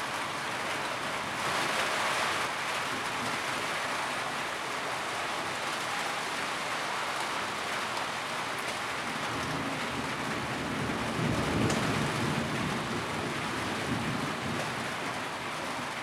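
Steady rain pattering on a tin roof, a dense even hiss of drops on sheet metal. A low rumble swells up beneath it about two-thirds of the way through and fades again.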